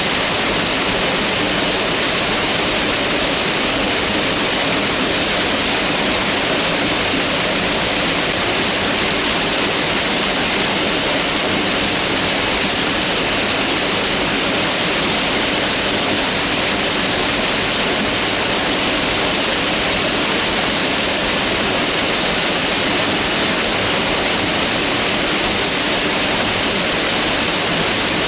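Mountain river rushing over rocks: a loud, steady, unbroken water noise.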